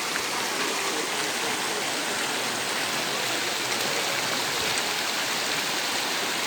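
Steady rush of flowing water, an even noise that holds throughout.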